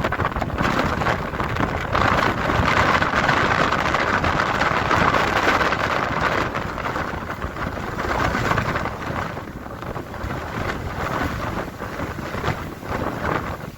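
Strong gusting wind buffeting the microphone, a dense rushing rumble that swells loudest in the first half and eases a little later on.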